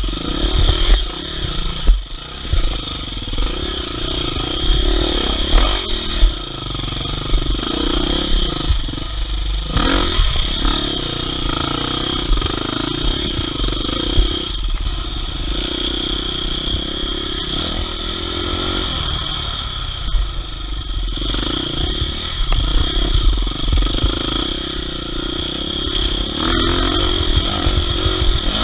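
Off-road enduro motorcycle engine running as the bike is ridden along a trail, the revs rising and falling now and then. A few knocks and rattles come from the bike over rough ground.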